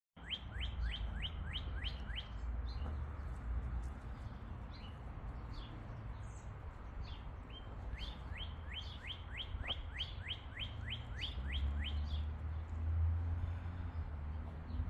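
A bird singing in rapid runs of quick, downward-slurred whistled notes, about five a second: one run at the start, scattered single notes through the middle, and a longer run from about 8 to 11 seconds. A steady low rumble lies underneath.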